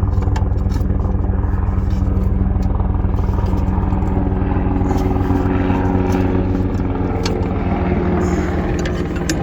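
Helicopter flying overhead: a fast, steady rotor beat over a loud engine hum, fuller from about halfway through, with a few light metal clinks.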